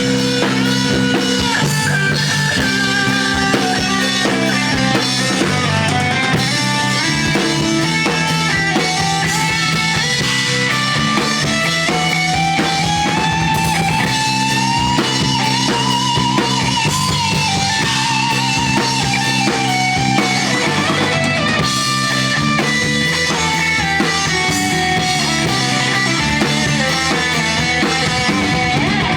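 Rock band playing an instrumental passage with electric guitar, bass and drum kit. In the middle, a lead melody line with a wavering pitch climbs and falls back.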